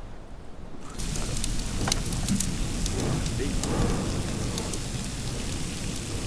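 Light rain pattering, a steady wash of small sharp ticks with a low wind rumble underneath, starting abruptly about a second in after a quieter moment.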